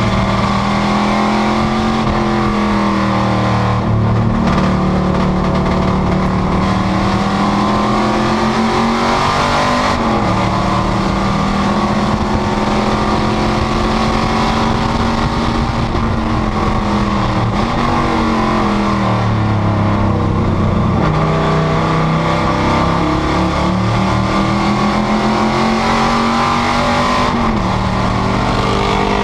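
Panoz GTS race car engine under hard throttle at racing speed. Its pitch climbs steadily, then breaks and drops several times as the car shifts and lifts off for corners, before building again.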